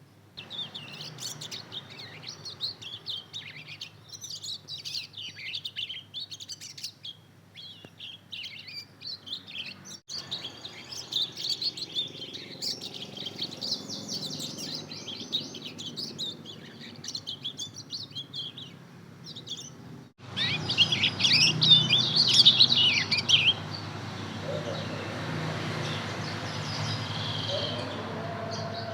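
Two-month-old mozken (yellow-fronted canary × domestic canary hybrid) chick twittering as it learns to sing: a rambling, unformed string of high chirps and warbles, the early practice song of a young bird. The twittering breaks off abruptly twice and mostly stops about three-quarters of the way through, leaving a steady hiss.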